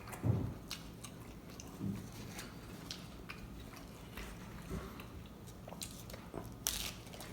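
A person biting into and chewing a taco close to the microphone, with scattered wet mouth clicks and smacks. A low thump comes shortly after the start and a brief crackle near the end.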